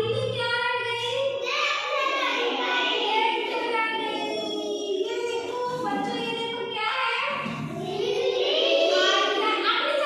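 A group of young children singing together in chorus, with pitch rising and falling continuously throughout.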